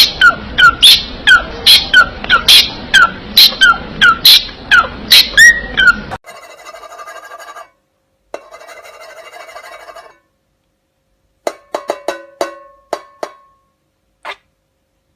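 A parrot repeatedly giving a sharp, loud, falling-pitched call, about two to three a second, which stops about six seconds in. Two stretches of a steady buzzy tone follow, then a few clicks.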